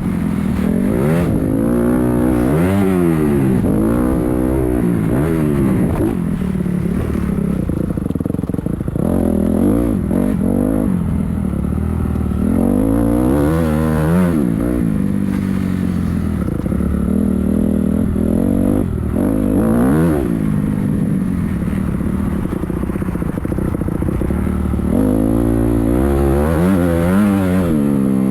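Motocross bike engine running hard, its pitch repeatedly rising and falling as the throttle is opened and closed, with the biggest sweeps about 2 to 4 seconds in, around 13 to 15 seconds in, and near the end.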